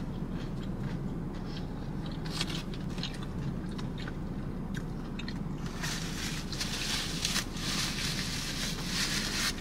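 Close-up chewing and mouth sounds of someone eating a breaded fried mozzarella stick, with scattered small clicks. From about six seconds in, a paper napkin crinkles and rustles as hands are wiped.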